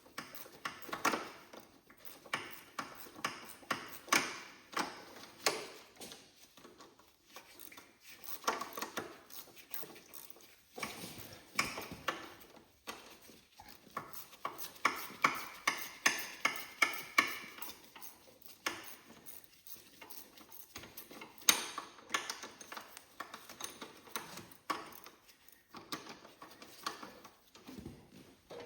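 Hand ratchet wrench clicking in short runs on the engine mount bolts of a Cub Cadet 1782 garden tractor, with sharp metallic clinks and taps of the tool against the frame. A quicker, ringing run of clicks comes about halfway through.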